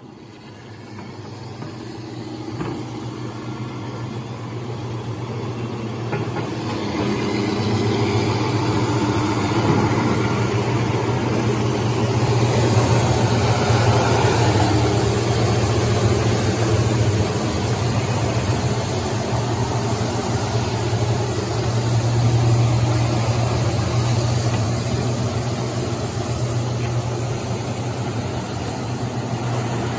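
Six-roll wood sanding machine running: a steady machine hum under a broad whirring noise, growing louder over the first several seconds and then holding steady.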